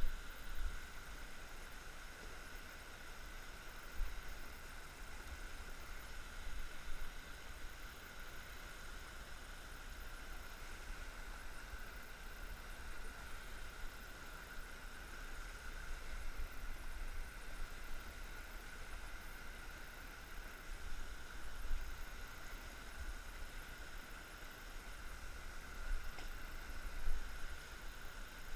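Steady outdoor noise of a kayak on a river: an even hiss of water with low rumbling on the microphone and a few soft knocks, once near the start and later around the middle and near the end.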